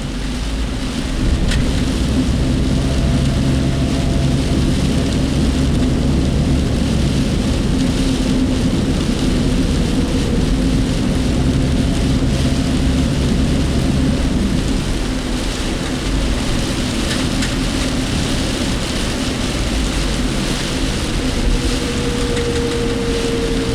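Typhoon rain beating on a car's body and windshield over a steady hum of engine and road noise, heard from inside the cabin while driving.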